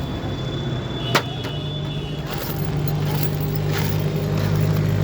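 A motor vehicle engine running steadily, its low hum growing louder over the second half, with a sharp metallic clink of a tool or part about a second in and a few lighter taps after.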